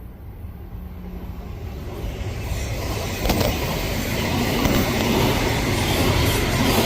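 Odakyu Line electric train approaching and passing, its running noise growing steadily louder from about two seconds in, with a sharp clack about three seconds in and another near the end.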